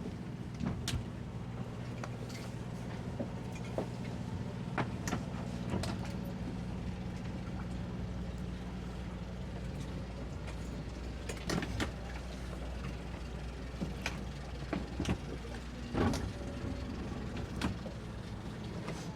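Outboard engines idling with a steady low hum that fades out a little past halfway. Scattered knocks and clunks sound throughout, the loudest about two-thirds and five-sixths of the way in.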